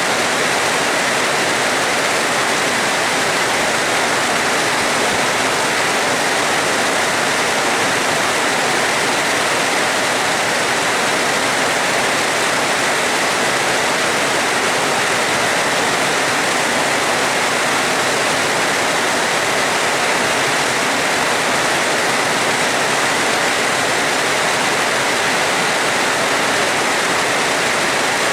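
Steady, heavy rain: a loud, even hiss of falling water with no thunder.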